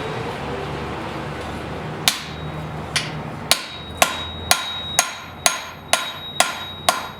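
Blacksmith's hand hammer striking hot steel on an anvil: about ten blows starting about two seconds in, settling to roughly two a second, each leaving a high ringing anvil tone, as he smooths and shapes a forged blade. A steady low hum runs under the opening seconds before the blows begin.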